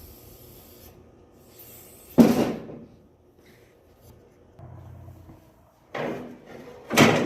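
Motorcycle being taken off a workshop lift: short scraping, rushing noises, one loud one about two seconds in and three more near the end, each fading within a second.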